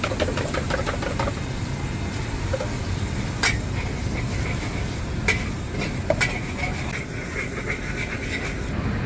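Metal spatula clanking and scraping against a wok as noodles are stir-fried, with three sharp ringing clangs, over a steady low engine-like rumble.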